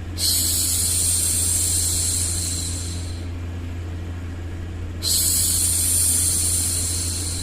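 A woman hushing a baby with a long 'shhh', twice, each shush lasting about three seconds, over a steady low hum.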